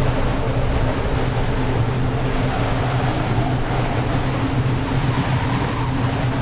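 Steady low rumbling drone with a held low hum, from a haunted-house ambience track.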